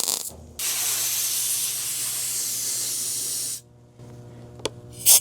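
MIG welder tacking a steel patch panel: a brief burst of welding right at the start, then about three seconds of steady arc sizzle that stops abruptly. A few sharp clicks follow near the end.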